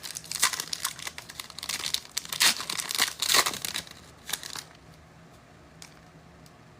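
Plastic-foil trading-card pack wrappers crinkling and tearing as packs are ripped open, in a run of crackling bursts that dies down after about four and a half seconds, leaving a few faint ticks.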